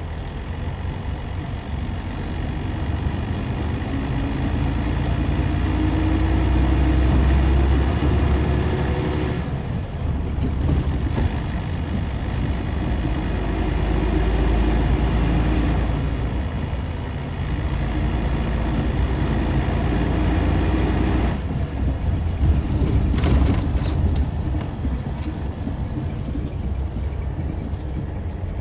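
Hyundai Universe coach's D6CC Powertec 380 diesel engine pulling hard, its pitch rising and then dropping at gear changes on the six-speed manual: about 9 seconds in, around 16 seconds, and about 21 seconds in. A few short knocks follow a couple of seconds after the last change.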